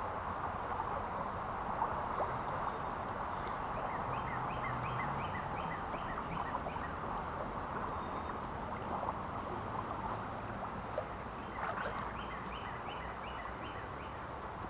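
Steady rush of flowing creek water. Over it a songbird twice sings a run of about ten short, down-slurred whistled notes, roughly three a second.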